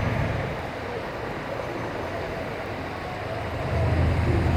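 City traffic noise: a steady wash of passing vehicles, with a low rumble swelling about three and a half seconds in as a vehicle comes closer.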